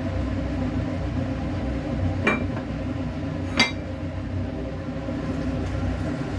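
Two sharp clinks of a utensil knocking against kitchen cookware or dishes, about a second and a half apart, the second louder, each ringing briefly. A steady low hum runs underneath.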